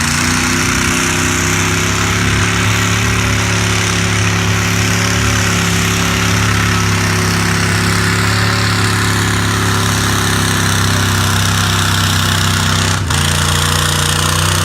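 V8 truck engine in a tractor, revved up and held at steady high revs. There is a brief stutter near the end.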